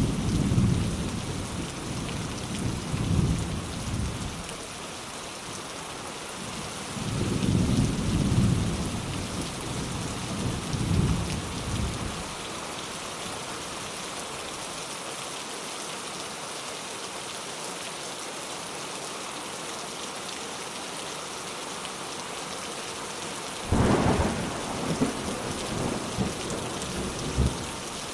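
Steady rain falling, with thunder rolling through it: low rumbles in the first dozen seconds, then a sudden sharper clap about 24 seconds in that rumbles on for a few seconds.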